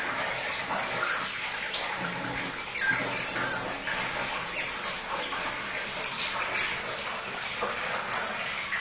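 Pleci (white-eye) singing vigorously: short, high, downward-sliding whistled notes in quick clusters, several per second, over soft twittering.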